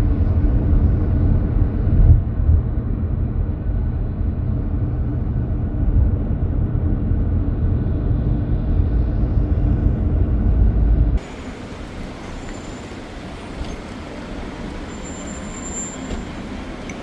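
Steady low rumble of a vehicle in motion, heard from inside. It cuts off abruptly about eleven seconds in, giving way to a quieter, even background hum.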